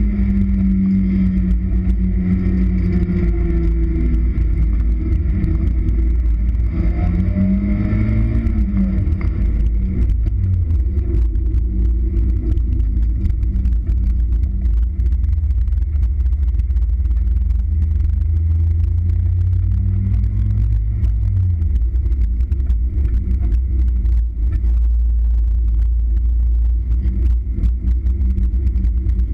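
Mazda Miata 1.6-litre four-cylinder engine revving up and falling back as the car is driven hard through an autocross course, heard from the open cockpit. A heavy low wind rumble on the microphone runs underneath and covers the engine more in the second half.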